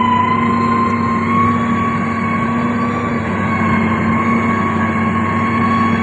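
Heavy diesel construction machine running steadily, with a high, steady whine riding over the engine hum.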